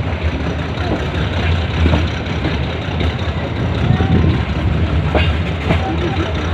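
Steady low rumble of a metre-gauge passenger train heard from inside a coach, with people talking faintly in the background.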